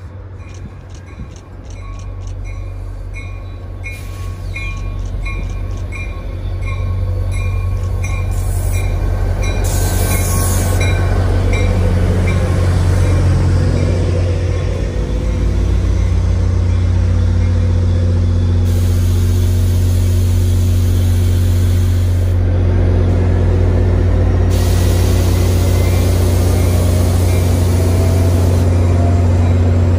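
Diesel-hauled commuter train pulling into a station. A bell rings steadily at about two strokes a second for the first several seconds. Then the low, steady drone of the locomotive's diesel engine and the rumble of the coaches' wheels on the rails grow loud as the train draws alongside, with faint wheel squeal.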